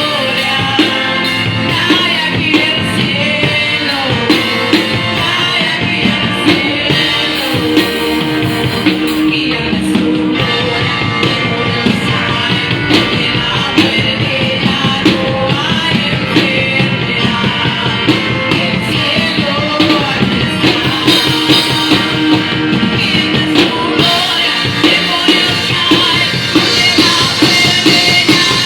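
Live worship band playing, with singing voices over a drum kit keeping a steady beat.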